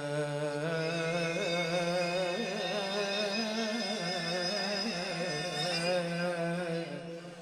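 A man singing one long, drawn-out melismatic phrase of an Iraqi religious chant praising Imam Ali, his voice wavering through ornaments over a steady low drone. The sound fades out near the end.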